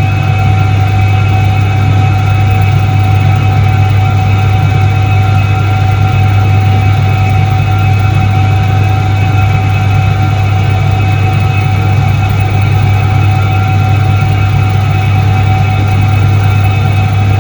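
1978 Soviet Iset-3 washing machine running, a loud steady motor hum with constant higher whining tones over it, unchanging throughout.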